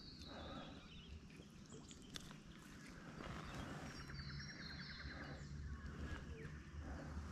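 Faint bird calls: a short descending run of high notes near the start and again around the middle, over a quiet low rumble.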